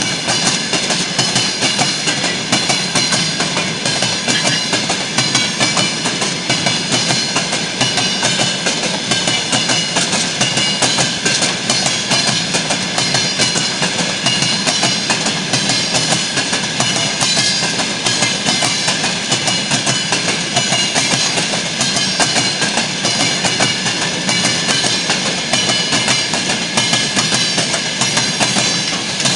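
Wagons of a freight maintenance train rolling past on the rails: a continuous loud clatter of wheels over the track with a steady high metallic squeal from the wheels.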